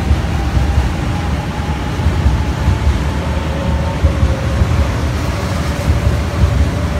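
JR 500 series 7000-type Shinkansen pulling out of the station, accelerating: a steady low rumble of the train running on the rails, with a faint motor whine that rises slowly in pitch.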